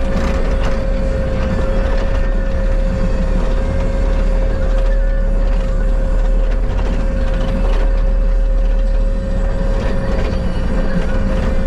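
Bobcat skid steer running steadily under work, its engine sound heavy and continuous with a steady high whine held throughout.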